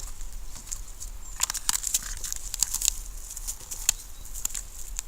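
Footsteps crunching through a dry forest floor: irregular crackles and snaps, busiest from about a second and a half in.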